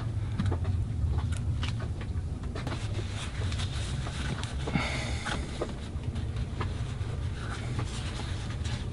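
A steady low rumble under scattered small clicks and taps of metal parts being handled, as a greased lip seal is worked onto the furler.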